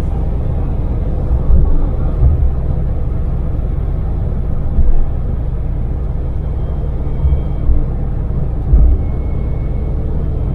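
Daewoo Damas microvan's small three-cylinder LPG engine and road noise, a steady low rumble while cruising at expressway speed. A few brief low thumps stand out.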